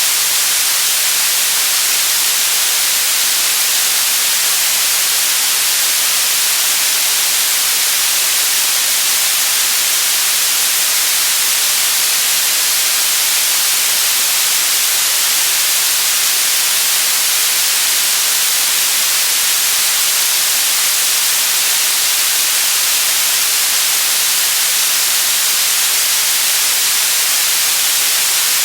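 White noise: a steady, even hiss, brightest in the treble, with no change or break.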